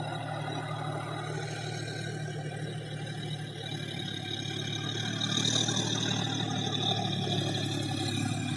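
Swaraj tractor's diesel engine running steadily, growing a little louder about halfway through.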